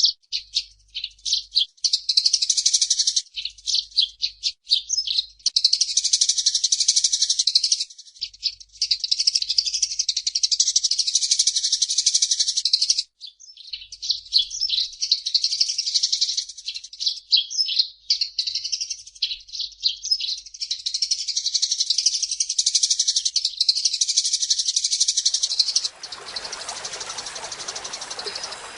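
Eurasian tree sparrows chattering in a dense, rapid run of high chirps, with a few brief pauses. Near the end the chirping gives way to a steady rushing noise like running water.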